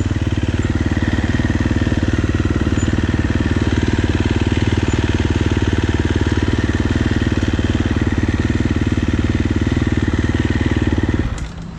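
Motocross bike engine running at a steady, even pitch, cutting off abruptly near the end.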